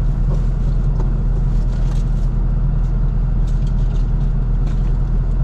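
LS V8 engine of a 1981 Chevrolet C10 running steadily, a constant low drone heard from inside the cab.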